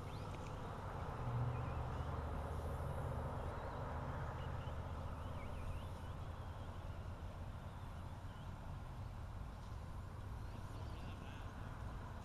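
Radio-controlled stadium trucks running on a track, heard as faint motor whines that rise and fall over a steady low hum.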